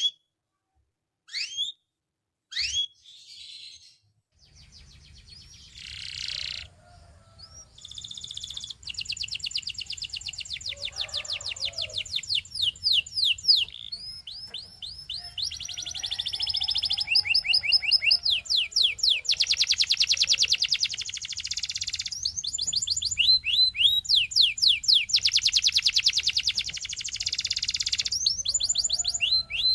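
Canary singing. It begins with a few separate rising chirps, then from about eight seconds in it breaks into long, rapid trills of repeated up-sweeping notes and dense rolls that grow louder.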